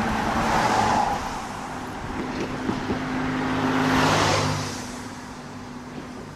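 Road traffic going by: car passes swell and fade, the loudest about four seconds in with a low engine hum under the tyre rush, then dying away.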